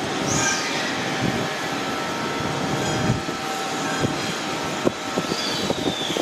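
Passenger train running through the station with a steady rumble and hiss. There is a brief high squeal near the start, a falling high squeal near the end, and a series of clunks in the last second or so.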